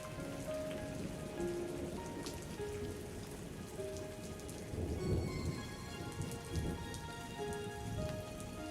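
Steady rain falling on a surface, with soft music of slow, sustained single notes over it. A low rumble of distant thunder comes in about five seconds in and fades out near seven seconds.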